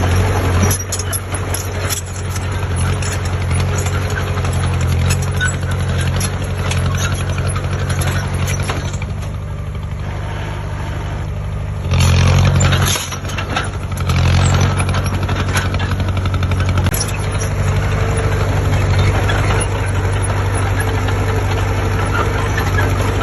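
Heavy construction machine's diesel engine running steadily, with louder surges near the start and about halfway through.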